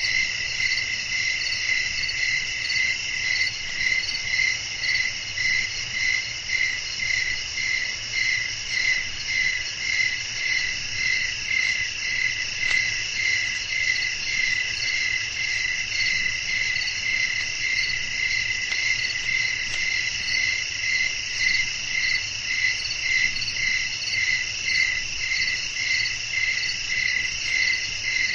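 Crickets chirping in a dense night chorus: several overlapping high trills, the lowest pulsing evenly about twice a second.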